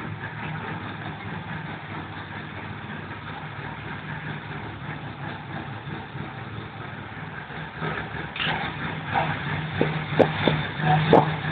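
Škoda Felicia 1400 engine idling steadily, with a few short knocks near the end.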